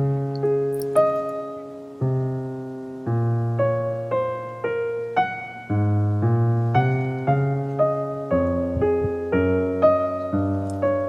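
Soft background piano music: gentle notes and chords struck every half second to a second, each fading before the next.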